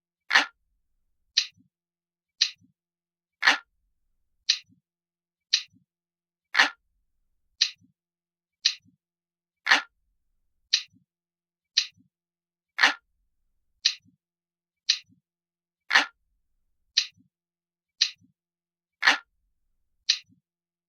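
Recorded clock ticking sound effect, one sharp tick about every second, with every third tick fuller and lower.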